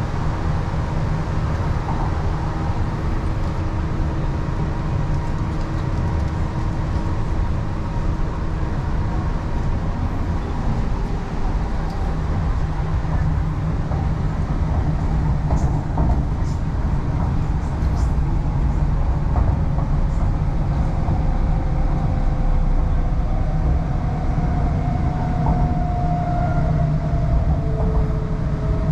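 MTR East Rail Line R-Train electric multiple unit running, heard from inside the carriage: a steady rumble of wheels on the track with faint traction-motor tones that shift in pitch near the end, and a few light clicks in the middle.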